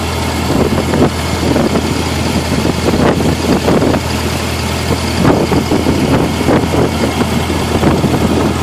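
1912 Model T Ford's four-cylinder flathead engine running as the car drives along, a steady low hum with an uneven clatter over it.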